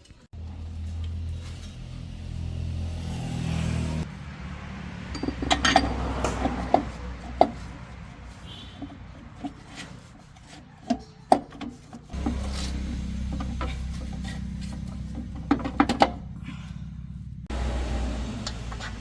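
Metal tools and parts clinking and knocking, with a steady low machine hum that cuts in and out.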